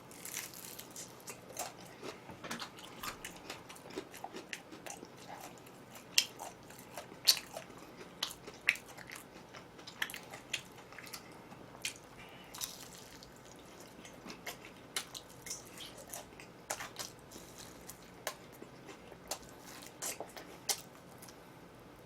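Close-up chewing of crispy fried chicken: irregular crunchy bites and wet mouth clicks, a few sharper crunches standing out in the middle.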